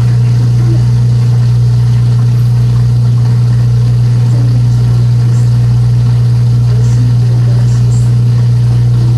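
Daewoo countertop dishwasher running its wash cycle in the final minute before it shuts itself off, with a loud, steady low hum.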